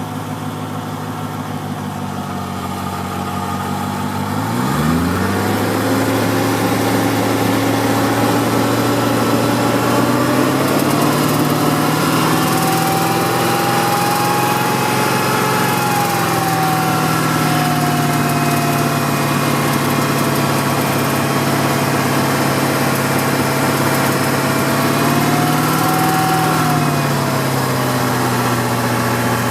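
BMW M60 V8 engine idling with a sharp ticking from underneath the engine. About five seconds in, a low tone rises in pitch and then holds steady.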